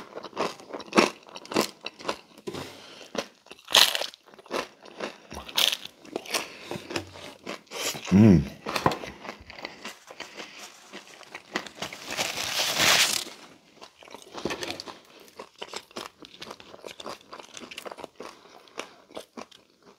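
Close-miked biting and chewing of a crisp, dry Pizza Hut Melt (folded thin-crust pizza), with many short crunches of crust and wet mouth sounds. A short low throat sound comes about eight seconds in, and about two-thirds of the way in there is a rustling hiss lasting about a second.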